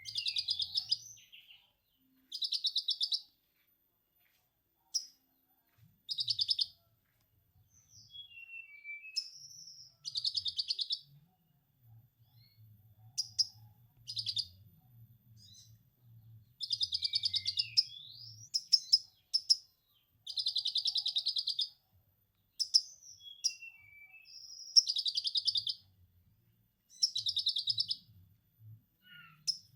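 Konin songbird singing: repeated bursts of rapid, buzzy trilled chatter in the style of a lovebird's 'ngekek', each about one to three seconds long, with short gliding whistles between them.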